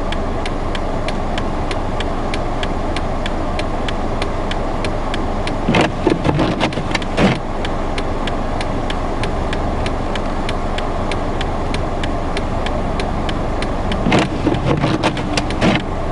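Steady noise of a car's idling engine and gusting blizzard wind around a car stuck in a snowdrift, with a faint regular tick about three times a second. Louder knocks and rustles come around six to seven seconds in and again near the end.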